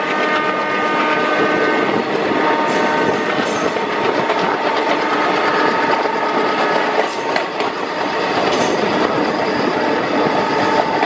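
Passenger train running on the rails: a steady, loud rumble and clatter of wheels on track, with a few faint steady high tones running through it.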